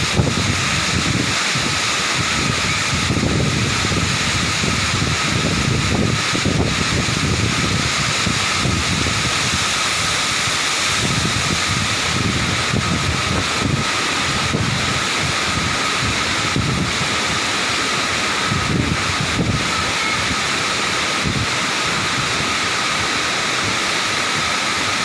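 Waterfall rushing: a steady loud hiss of falling water, with wind gusting unevenly on the microphone.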